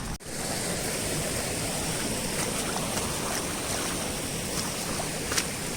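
Rushing water of a monsoon-swollen stream, a steady even rush without breaks.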